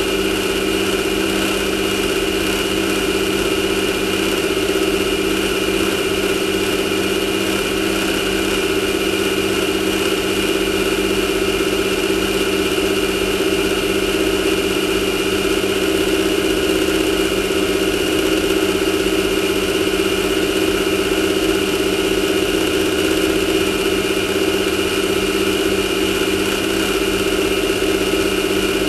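Class 1600 off-road race buggy's air-cooled VW flat-four idling steadily at an even, unchanging pitch, with no revving.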